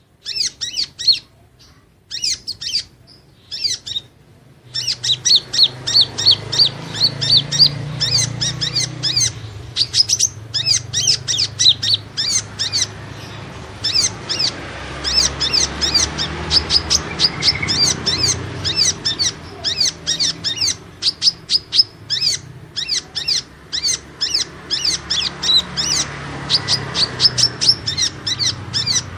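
Sunbird ('kolibri ninja') calls played as a lure recording: rapid, high-pitched chirps and twitters repeated several times a second. They come in short separated bursts for the first few seconds, then run on continuously over a low rumble.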